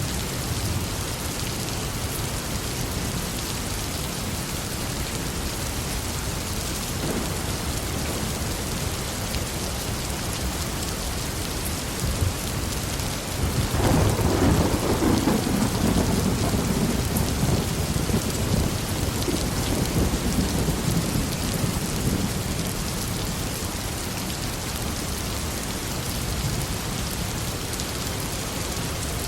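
Heavy rain falling steadily, with a long roll of thunder that breaks out about halfway through, rumbles for several seconds and slowly fades.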